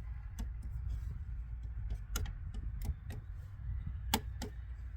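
Scattered light clicks and taps of hand tools working at a stuck pin in a large circuit breaker. Under them runs a steady low rumble.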